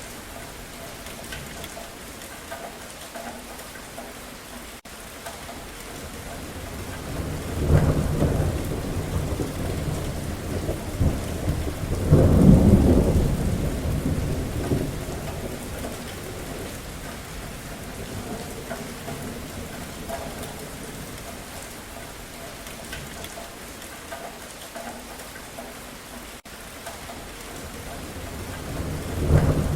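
Steady rain falling, with rolling thunder. A deep rumble builds about a quarter of the way in, peaks louder a few seconds later, then slowly dies away, and another roll starts near the end.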